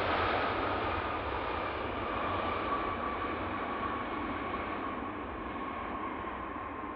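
Jet engines of a Boeing 777 freighter moving away after landing, their whine sliding slowly down in pitch as the sound fades.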